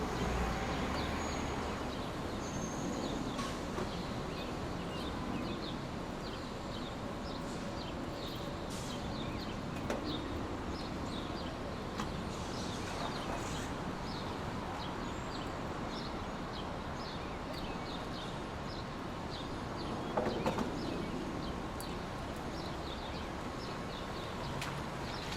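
Steady hissing noise from a relaxation noise track, with many short, high bird chirps repeating over it and a few faint knocks.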